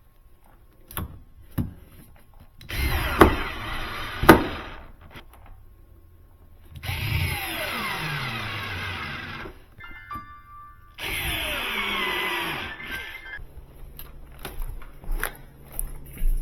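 A power drill/driver runs in three bursts of a couple of seconds each, its pitch sagging as it works, with a few sharp knocks in between.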